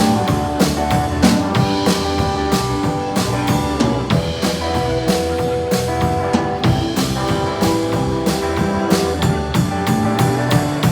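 Live band playing an instrumental break with no vocals: drum kit keeping a steady beat under sustained guitar notes.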